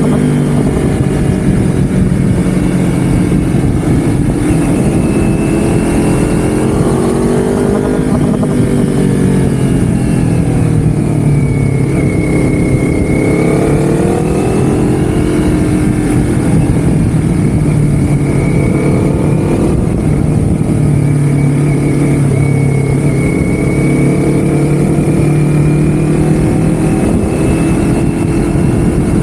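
Motorcycle engine running on the move, its pitch rising and falling gently as the speed changes, over steady wind and road noise.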